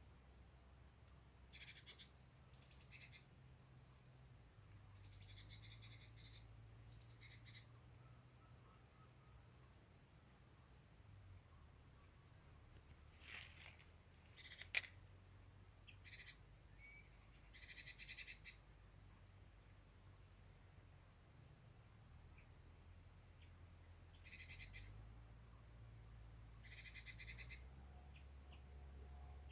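Gelatik birds calling in short, scattered bursts of high chirps and chatters, from the decoy and wild birds at a bird-trapping spot, over a steady faint high-pitched hiss. The calls are faint.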